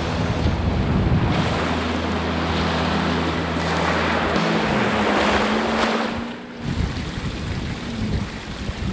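Chevrolet Colorado Bison pickup driving through a deep water crossing: a steady rush and splash of water over a running engine. The engine note drops about halfway through, and the water noise eases off at about six and a half seconds.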